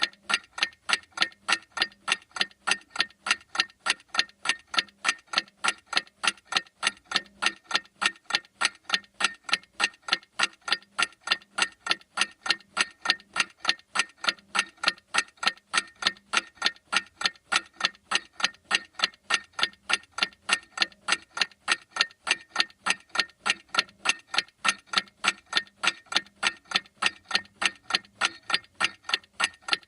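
A clock ticking with steady, evenly spaced, sharp ticks.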